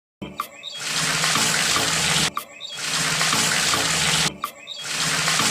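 Water pouring or splashing in steady rushes of about a second and a half, each broken off by a short gap, about every two seconds.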